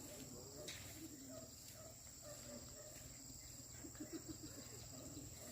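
Faint, steady high-pitched chirring of insects such as crickets in rural countryside, with faint wavering low sounds beneath.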